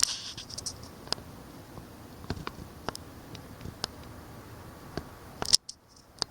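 Irregular light clicks and ticks over a faint steady hiss, with the loudest click a little past five seconds in, followed by a brief drop to near silence.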